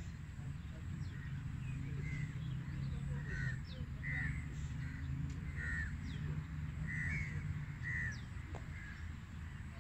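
Birds calling: a short call repeated about once a second, with brief high falling chirps between, over a steady low rumble.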